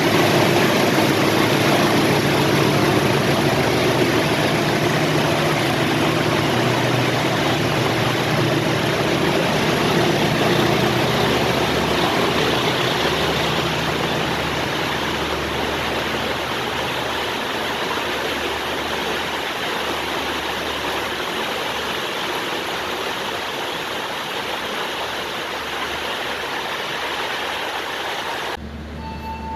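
Diesel locomotive engine running with a loud, steady rushing noise of a train at the station, slowly fading; it cuts off suddenly near the end.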